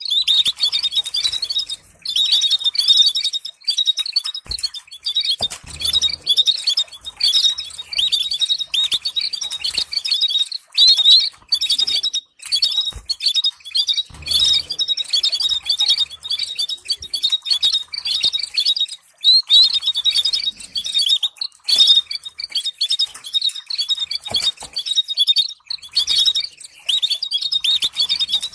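Canary singing continuously in fast trills and warbles, in phrases of one to two seconds broken by short pauses, with a few faint taps underneath.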